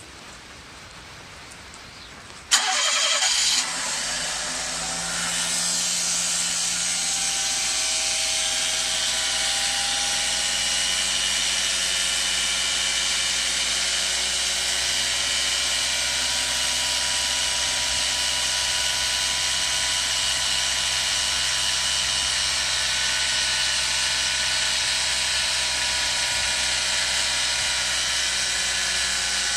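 An engine starts suddenly about two and a half seconds in, then runs steadily with a whining, hissing note on top. The owner calls this sound an abnormal noise that has come back.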